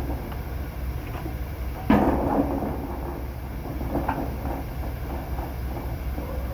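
Steel loading-dock plate being worked by hand: a loud metal clank about two seconds in, then lighter knocks, over a steady low hum.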